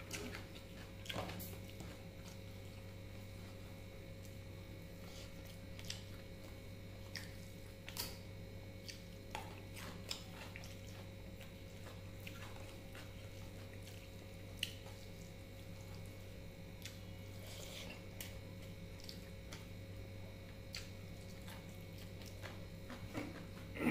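Close-miked eating sounds: soft chewing, wet mouth smacks and scattered small clicks and squishes as fingers mix rice and curry on a plate, over a steady low hum.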